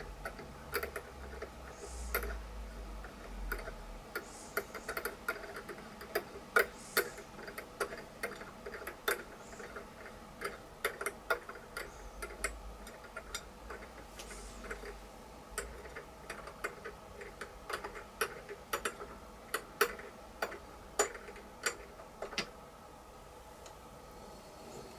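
Hand tapping #4-40 threads in aluminum plate: irregular sharp clicks and ticks from the tap and tap wrench, one to three a second, over a steady faint hum.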